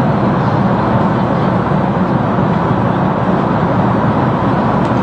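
Steady rushing cabin noise of an airliner in flight, even and unchanging.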